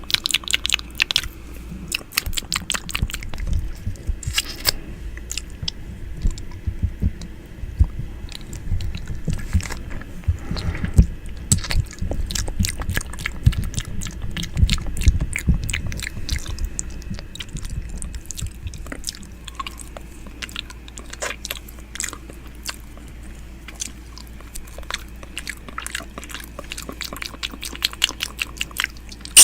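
Close-up ASMR 'ear eating' mouth sounds: wet, irregular clicks and smacks of lips and tongue right at the microphone. Low rumbling contact noise comes and goes through the first half.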